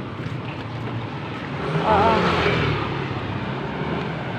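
Street traffic with a motor vehicle passing close by, its noise swelling to a peak about two seconds in and then easing off.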